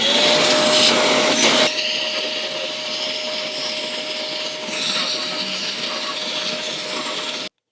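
A vacuum cleaner running together with a Dremel rotary tool's coarse sanding drum grinding down hardened plastic-bonder filler: a steady high whine over a loud hiss, loudest in the first second and a half.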